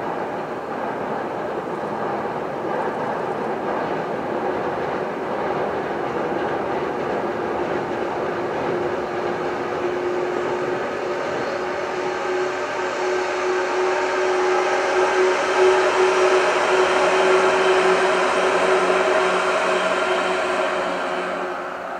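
JR 115 series electric train running, a steady rumble with a few constant hum tones. It grows louder to a peak about two-thirds of the way through, then drops away sharply at the end.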